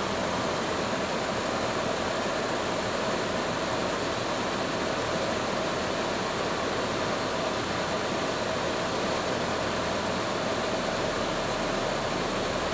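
Steady, even rushing hiss of a car's air-conditioning blower running inside the closed cabin.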